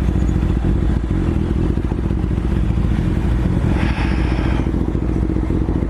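BMW S1000RR motorcycle's inline-four engine running steadily while being ridden. A brief hiss comes about four seconds in.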